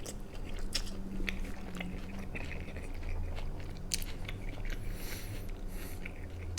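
A person chewing and biting pizza, with many short wet mouth clicks and smacks scattered throughout. A low steady hum runs underneath.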